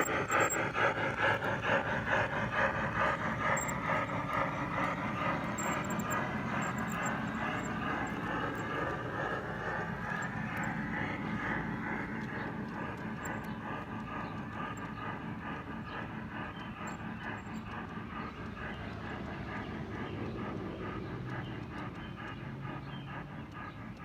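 G scale model train running on the track: an electric motor hum and rolling wheels that pulse rhythmically, slowly fading as the train moves away.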